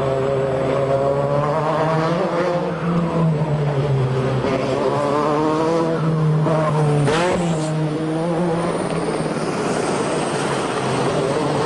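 Renault 5 Maxi Turbo's turbocharged 1.4-litre four-cylinder engine running under load, its revs rising and falling, with a quick sharp rise and drop in revs about seven seconds in.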